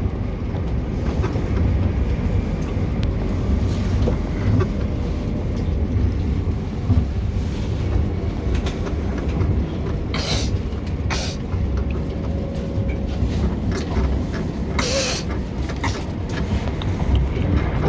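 Running noise inside a moving Class 377 Electrostar electric multiple unit carriage: a steady low rumble of wheels on rail, with a few short hisses around the middle.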